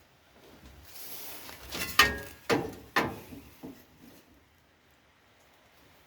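Sheet-steel repair panel pieces being cut and handled: a short scraping hiss, then four sharp metallic clicks and clunks about half a second apart, the first ringing briefly.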